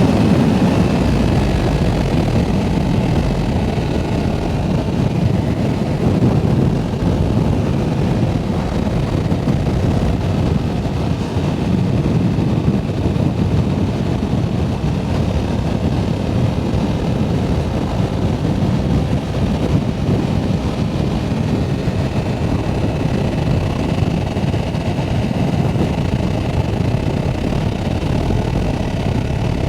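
Yamaha R7 motorcycle under way, its engine running steadily beneath a heavy rush of wind on the microphone.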